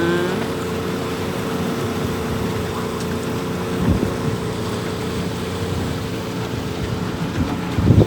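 Motorboat engine running steadily while under way, with a single thump about four seconds in.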